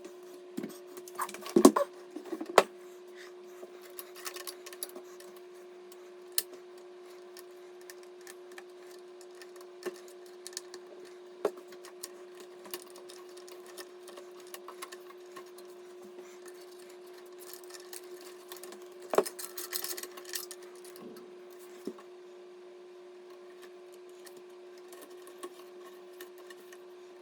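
Scattered clicks and taps of computer hardware being handled and fitted, with louder clusters of knocks near the start and about two-thirds of the way through, over a steady low hum.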